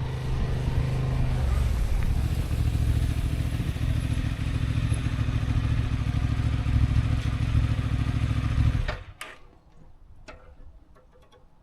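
Motorcycle engine running at a steady pitch, cutting off abruptly about nine seconds in, followed by a few faint clicks.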